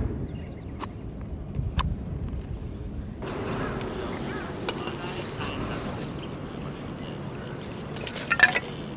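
Wood fire crackling, with scattered sharp pops and a louder cluster of crackles near the end, over a steady high-pitched drone that comes in about three seconds in.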